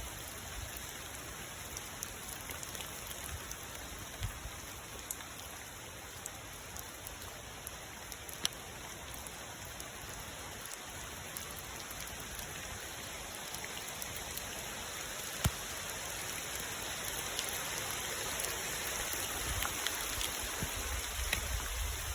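Steady hiss of rain falling, with scattered ticks of single drops, and a low rumble rising near the end.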